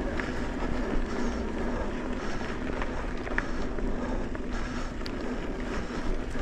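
Mountain bike rolling along a dirt trail: a steady rush of tyre and wind noise on the microphone, with a faint steady hum and scattered small clicks and rattles.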